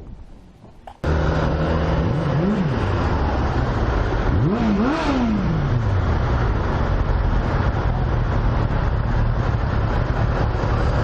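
A motor vehicle's engine starts abruptly about a second in and runs loudly. Its pitch rises and falls once, then twice more in quick succession as it revs, before it settles into a steady drone while driving.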